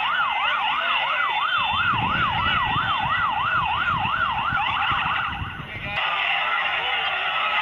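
Electronic vehicle siren on a fast yelp, its pitch rising and falling about three times a second, cutting off about three-quarters of the way through. A dense crowd din carries on throughout, with a low vehicle rumble in the middle.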